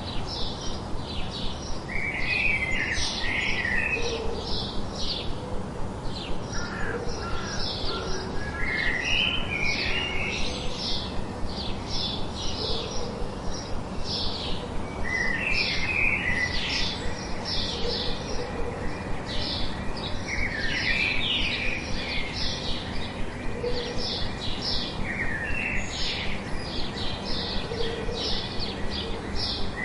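Birds chirping: a dense, continuous run of short high chirps, with a lower warbling phrase breaking in every few seconds.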